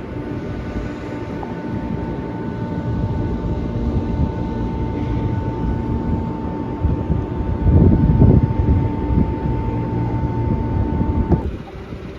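A vehicle engine running with a steady hum and a held whine, swelling louder about eight seconds in; the whine cuts off abruptly near the end.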